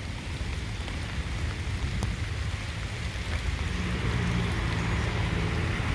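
Steady rain falling, an even patter with no break. A faint low steady hum joins in during the last two seconds.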